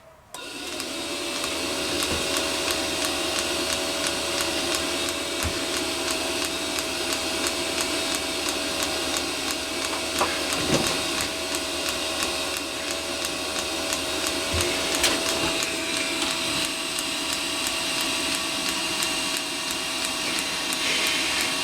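Eberspacher D1L diesel heater in its start cycle: the combustion air blower motor spins up and runs with a steady whine, and a faint regular ticking runs along with it. The heater does not fire.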